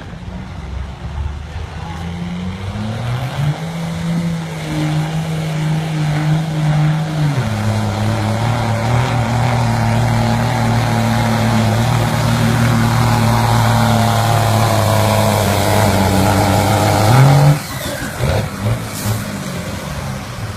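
24-valve Cummins inline-six turbo diesel in a 1998.5 Dodge pickup under full load pulling a sled. The revs climb over the first few seconds, the pitch drops about seven seconds in and then holds steady while the sound grows louder, and near the end the revs jump briefly before the engine is let off.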